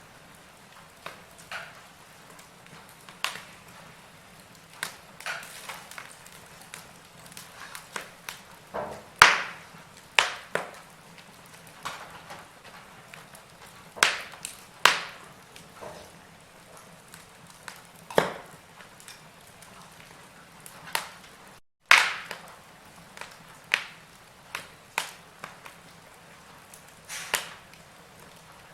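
Burning logs in a wood fire crackling: irregular sharp pops and snaps, a few much louder than the rest, over a soft steady hiss. The sound drops out for a split second about two-thirds of the way through.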